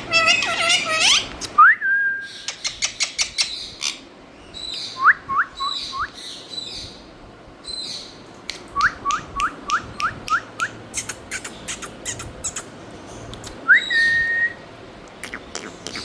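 A parrot calling: chattering calls in the first second, then a rising whistle held briefly, runs of short upward-sweeping whistles, and another rising held whistle near the end. Sharp clicks come in between the whistles.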